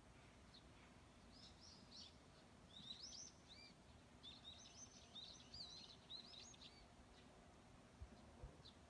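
Faint bird chirping: a quick run of high, swooping chirps lasting several seconds, then two soft low thumps near the end.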